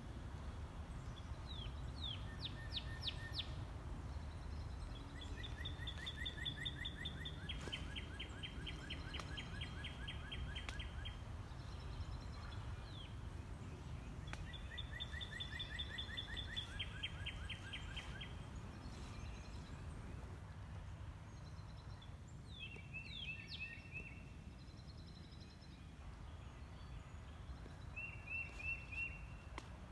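Birds singing in short repeated trilled phrases, several in a row with pauses between, over a steady low rumble of background noise.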